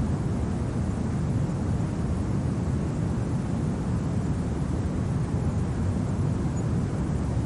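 Steady low wind blowing, a deep even rumble of a winter snowstorm ambience with no gusts or breaks.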